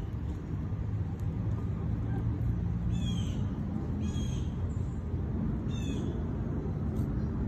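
A bird gives three short, high, downward-slurred calls, about three, four and six seconds in, over a steady low rumble.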